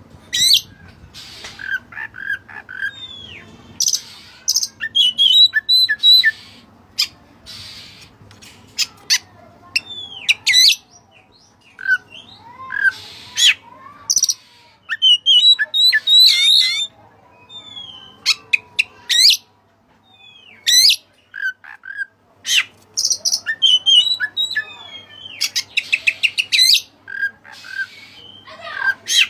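Oriental magpie-robin (kacer) singing a fast, varied song of clear whistles, slurred glides and trills, broken by short harsh notes and a rapid run of ticks.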